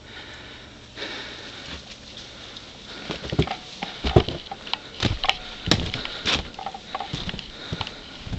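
Footsteps crunching through snow, irregular steps starting about three seconds in.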